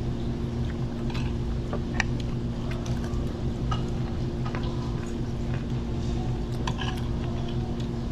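Steady low hum of a restaurant's machinery, with scattered light clicks and clinks of cutlery on plates from people eating.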